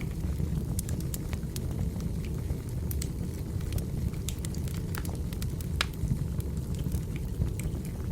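Burning firewood crackling: irregular sharp pops and snaps scattered over a steady low rumble.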